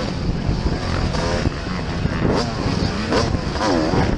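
Motocross bikes racing, their engines revving up and falling back again and again, more than one engine at a time.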